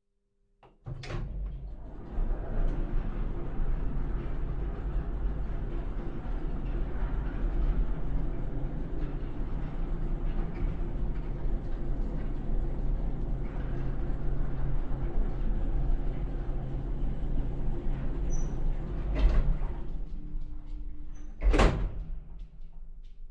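Elevator car running: a click, then a steady low rumble and motor hum for about twenty seconds. Two thuds near the end, the second louder, as it comes to a stop, then the sound dies away.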